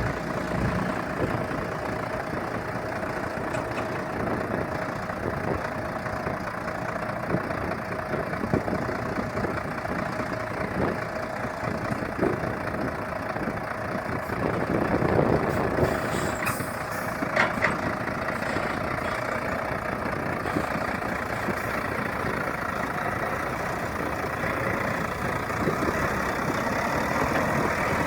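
Heavy gravel dump truck's diesel engine running steadily while tipping its load. A short, sharp hiss comes about sixteen seconds in.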